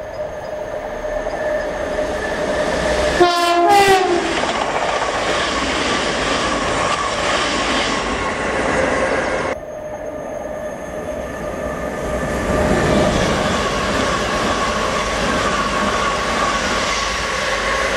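Continuous rumble and rail noise of trains running through a station on an electrified main line, with a brief train horn about three seconds in. In the second half a Great Northern electric multiple unit passes close by, its running noise carrying a steady whine.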